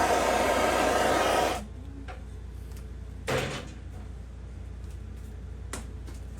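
A hand-held hot-air blower runs with a steady whoosh and is switched off about a second and a half in, stopping suddenly. A short rustling noise and a single click follow.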